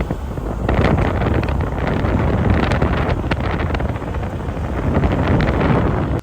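Wind buffeting the microphone over the rumble of a moving vehicle on the road, loud and gusting, cutting off abruptly at the end.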